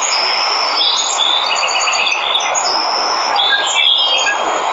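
Steady rush of a waterfall, with birds chirping and trilling over it in short high calls.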